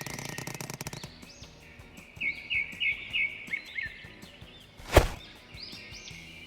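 Birds chirping in short repeated high calls, after about a second of rapid clicking, with one sharp loud knock about five seconds in.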